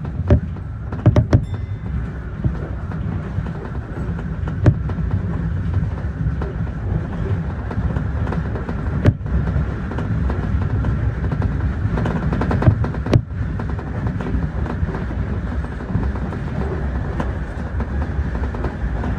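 Keio Inokashira Line electric commuter train running along the track: a steady rumble of wheels on rail, with a few sharp clicks as the wheels cross rail joints.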